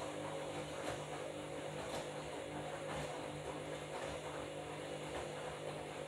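Washing machine running with a load of bed linen: a steady motor hum with faint regular knocks about once a second as the drum turns.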